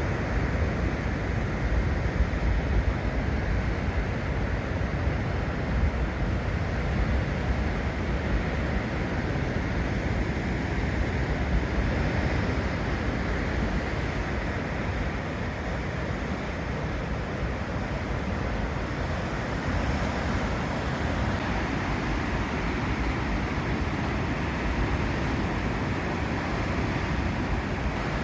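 Sea surf washing against a rocky shore, a continuous rushing rumble with no distinct crashes, mixed with wind buffeting the microphone.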